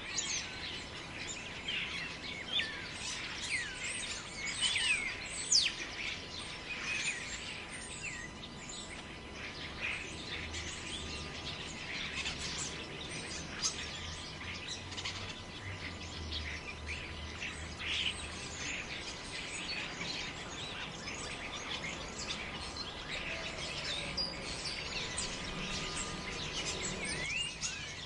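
Many birds chirping and calling in quick, overlapping short notes and whistled glides, over a steady hiss of wind through forest trees.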